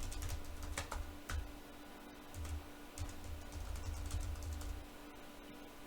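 Computer keyboard keystrokes, a few separate clicks as a password is typed, over a steady low hum.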